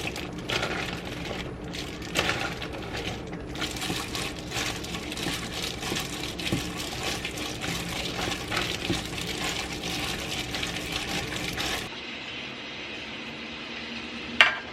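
Battered boneless chicken deep-frying in hot oil in a wok, the oil sizzling and crackling with many small pops. About twelve seconds in it gives way to a quieter hum, and a single sharp clink rings out near the end.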